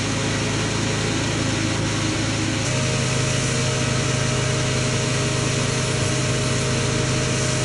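Pressure washer motor running steadily during the car wash, a continuous mechanical hum.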